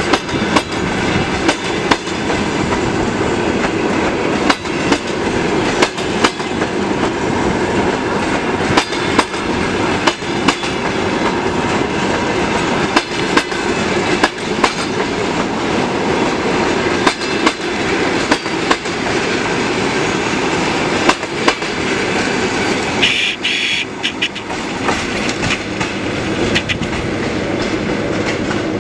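Passenger train cars rolling past on steel wheels, with a steady rumble and an irregular run of sharp clacks as the wheels cross rail joints. About two-thirds of the way through, a short high-pitched squeal stands out.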